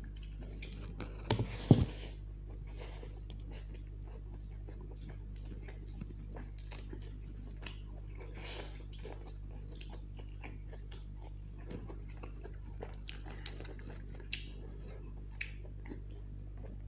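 Close-miked chewing and biting of chicken chow mein noodles and fried long green chillies: soft wet mouth sounds and many small clicks and smacks. A few loud knocks come together near the start. A steady low hum runs underneath.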